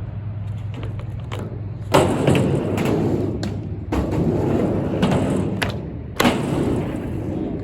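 Skateboard riding a mini ramp: wheels rolling, with three sharp thuds about two, four and six seconds in, each followed by rolling noise from the wheels.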